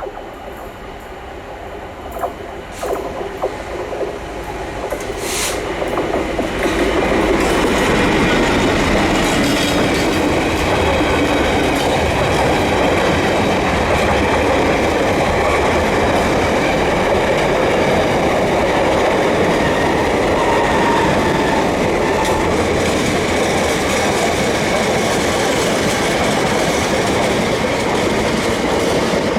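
A train approaching and running past close by: a few sharp clicks as it grows louder over the first several seconds, then a loud, steady rumble and rattle of wheels on rails that goes on without a break.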